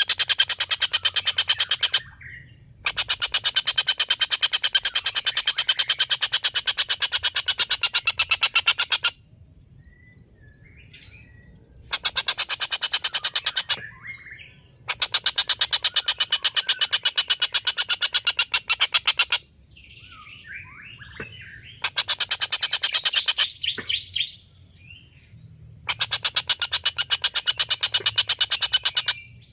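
Tengkek buto kingfisher giving its long cackling call: loud bouts of very rapid, evenly repeated notes, each running for a few seconds, six times over with short pauses. Fainter short chirps from other birds can be heard in the pauses.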